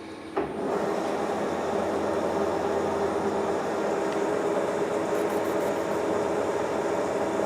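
Metal lathe cutting a steel round: the cut starts with a sharp bite about half a second in, then a steady, loud cutting noise over the running machine's hum.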